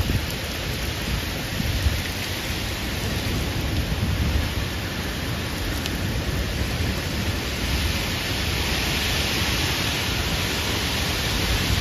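Heavy thunderstorm downpour: a steady hiss of rain that grows a little louder in the second half, over a low, uneven rumble.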